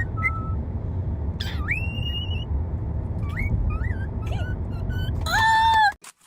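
Pet bird whistling a string of short notes that slide up and down, over a steady low rumble. Near the end comes a louder held call, and then the sound cuts off suddenly.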